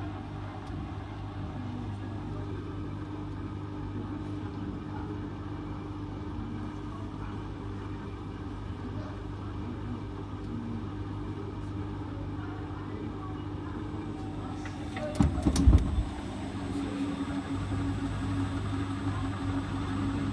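Hotpoint WT761 Ultima washing machine spinning its drum at an intermediate spin, a steady motor hum. About fifteen seconds in there is a brief clatter of loud knocks, and after it the hum runs a little louder.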